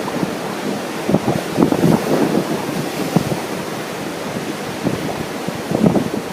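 Ocean surf washing steadily under strong wind buffeting the microphone in irregular gusts.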